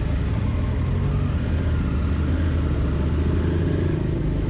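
Motorcycle engine running steadily under way, with a low, even engine note.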